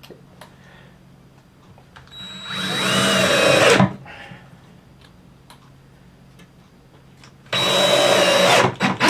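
Handheld power tool whirring in two runs of about a second and a half each, one a couple of seconds in and one near the end. It is used to fix the base piece with 2-inch nails. A faint steady low hum lies under both runs.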